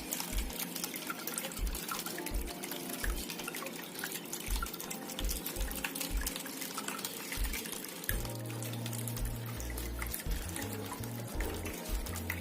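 Background music with a steady bass beat, turning to longer held bass notes about two-thirds of the way in, over water trickling and splashing from a small tabletop waterfall fountain.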